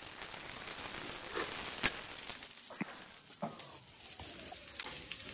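Potato and minced-meat cutlets shallow-frying in oil in a pan over a medium gas flame: a steady sizzle with a few sharp clicks, the loudest about two seconds in.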